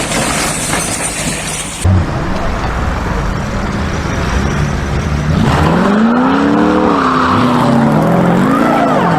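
A motor vehicle's engine revving up and down several times, its pitch rising and falling, after an abrupt cut from a noisier clip that ends in a short thump.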